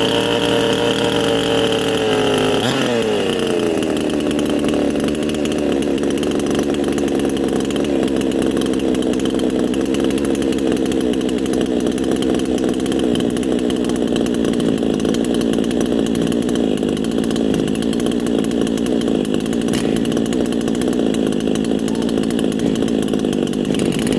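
Cold 58cc Chinese two-stroke chainsaw just started, running fast at first, then dropping to a lower idle about three seconds in. The idle eases down a little further and runs steadily as the engine warms.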